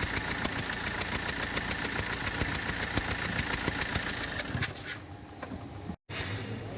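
Fiat Multijet diesel engine running with a rapid, even ticking, about nine or ten ticks a second: compression leaking past a failed injector seal. Near the end the ticking stops and the engine sound drops quieter.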